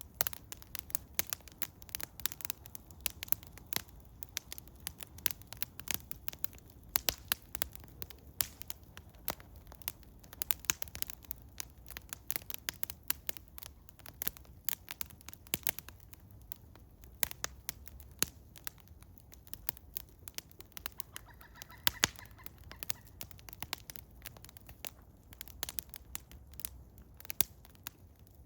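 Wood fire of eastern hemlock crackling and popping, with many sharp irregular snaps over a low steady rumble of the burning. A faint brief whistling tone sounds about two-thirds of the way through.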